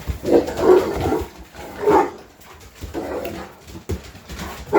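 English Mastiffs giving several deep barks and woofs, spaced a second or so apart, with a few low thumps between them.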